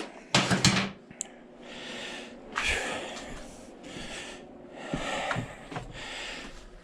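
A man breathing heavily, about one breath a second, close to the microphone, with a few handling clicks near the start.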